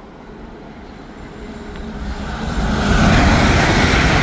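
A train approaching fast through the level crossing, its rush of wheel and air noise building steadily and turning loud at about three seconds in.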